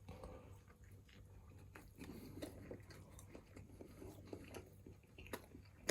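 Faint chewing of a Twisties-crumbed chicken burger, with scattered small mouth clicks and a sharper click near the end.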